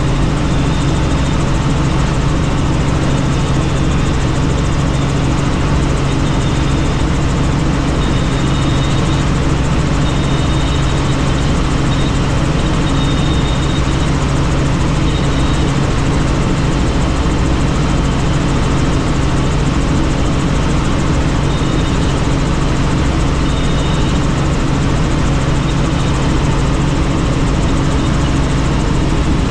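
Helicopter's engine and rotor running steadily in flight, heard from on board: a constant low drone over a dense rushing noise, with a faint high whine coming and going.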